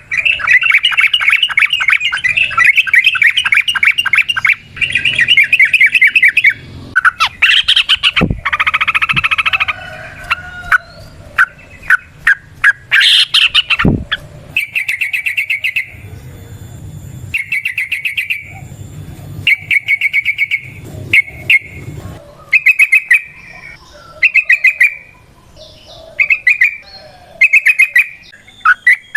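Yellow-vented bulbul (trucukan) singing its long, rapid chattering 'ropel' trill, one long run at first and then shorter repeated bursts with pauses between them. Two sharp knocks break in partway through.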